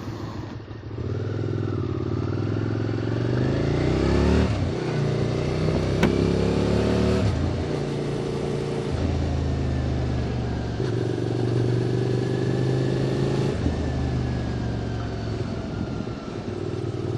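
QJ Motor SVT650X motorcycle with an Arrow Racetech slip-on exhaust, heard while riding. It accelerates with a rising engine note, shifts up so the pitch drops about four seconds in, pulls up again, then settles into a steadier cruise with small throttle changes, under wind and road noise.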